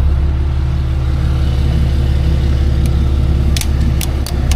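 Tow truck engine running steadily with a low, even hum. About three and a half seconds in, a quick series of sharp clicks starts.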